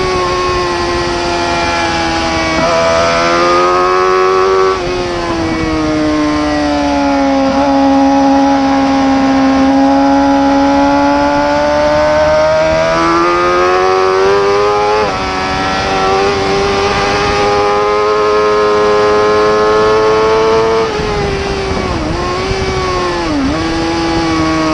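Superbike-class racing motorcycle engine at high revs, its pitch climbing steadily and then dropping sharply at each gear change, with two brief dips in pitch near the end.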